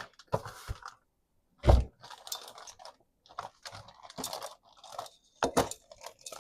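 Frozen food packages crinkling and clunking as they are handled and stacked into a freezer, with a heavy thump about two seconds in and another knock near the end.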